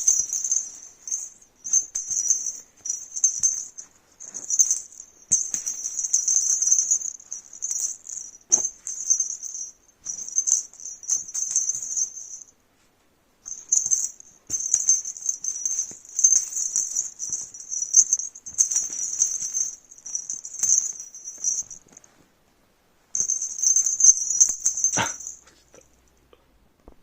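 A small jingling rattle toy shaken in quick, repeated high-pitched bursts, stopping briefly twice, with a knock about three-quarters of the way through.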